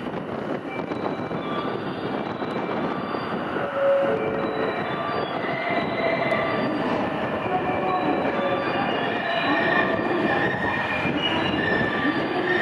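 JR West 227 series 500 subseries electric multiple unit pulling into the platform and braking. Its running sound grows louder as it nears, and high steady tones build up over the second half.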